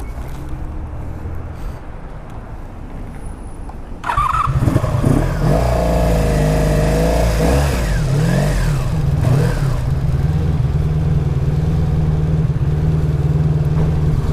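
1983 Honda Sabre VF750S V4 engine running under way. About four seconds in it gets louder as the bike speeds up, with the engine pitch rising and falling for a few seconds and a rushing wind noise over the microphone.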